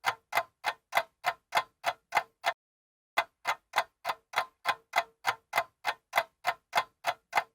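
Old mechanical stopwatch ticking, sharp even ticks about three a second, with a short break of about half a second a little before the middle before the ticking resumes.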